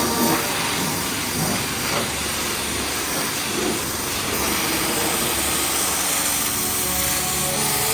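Pressure washer's high-pressure water jet spraying, a steady hiss.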